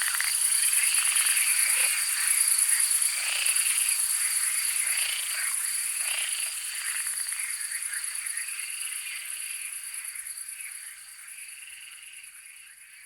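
Frogs croaking by a pond, one call about every second, over a steady high trill of insects. The whole chorus fades out over the second half.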